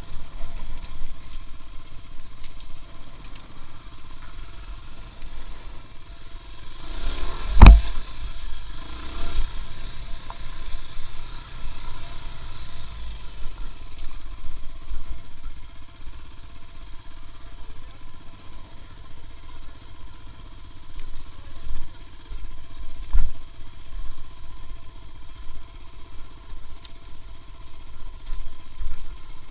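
A motor vehicle's engine running steadily with a low rumble, broken by a sharp knock about seven and a half seconds in and a smaller one later.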